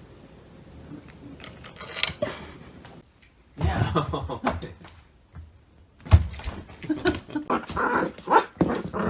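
A dog vocalizing in short bouts with gaps between them, and a sharp thump about six seconds in.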